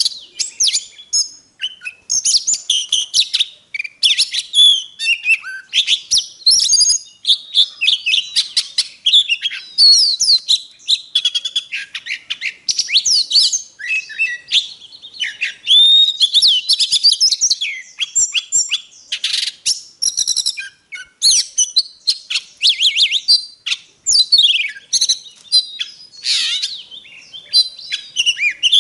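Oriental magpie-robin singing a long, fast run of varied whistles, trills and chirps with only brief pauses: a lure song used to spur other magpie-robins to sing.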